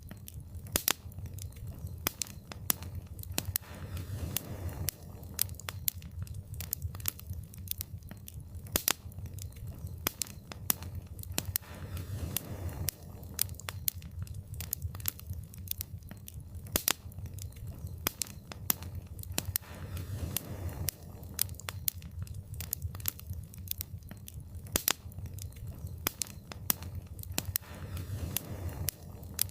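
Wood fire crackling, with frequent sharp pops and snaps over a low rumble of flames that swells about every eight seconds.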